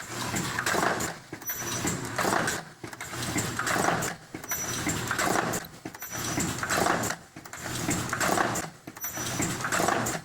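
HM100-2G mask ear-loop welding machine running automatically, its mechanism going through the same cycle over and over, about once every second and a half, with a brief quieter dip between cycles.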